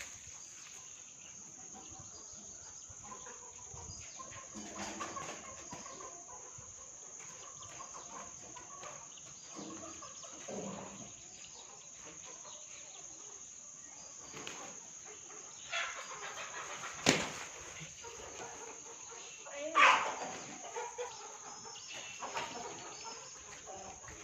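Chickens clucking and calling on and off, over a steady high-pitched tone. There is a sharp click about seventeen seconds in, and a loud squawk near twenty seconds, which is the loudest moment.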